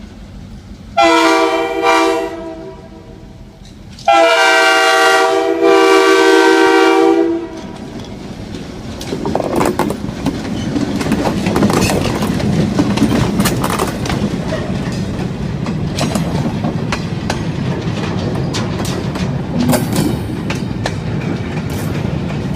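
Train horn sounding a chord in two blasts, a short one and then a longer one of about three seconds, followed by the train rolling past with its wheels clicking over the rail joints.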